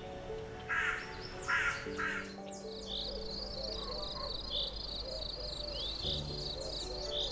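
Two short harsh animal calls about a second apart, then steady, rhythmic insect chirping over soft sustained background music.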